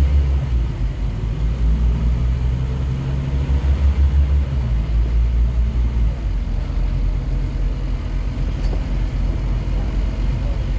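Scania N230UD double-decker bus's diesel engine running under way, a loud low rumble whose note shifts about four and a half seconds in and again around six seconds.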